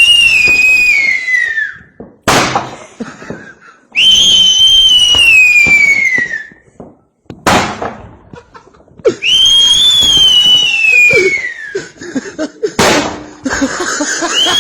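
A firework-style pattern, three times over: a long whistle falling in pitch, then a sharp bang. A fourth falling whistle begins near the end.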